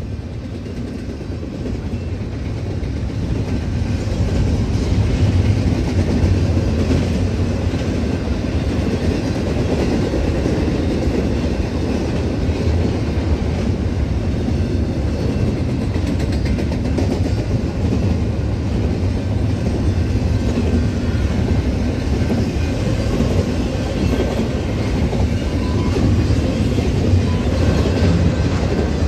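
A train rolling past, a steady low rumble of wheels on rail that builds over the first few seconds and then holds.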